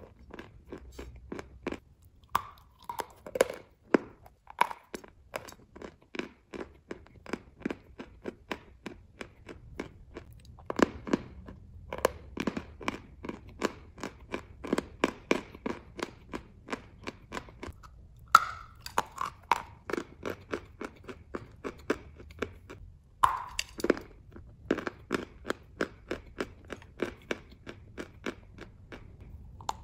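Close-miked chewing of a crunchy lump of chalk: sharp crunches come several times a second as it breaks up in the mouth, with a few louder crunches now and then.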